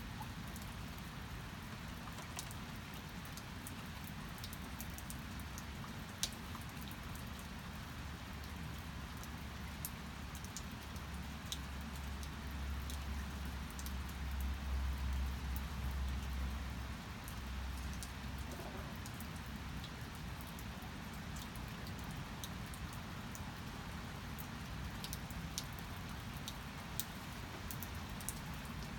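Steady rain falling, with scattered drops ticking on a surface. A low rumble swells and fades about halfway through.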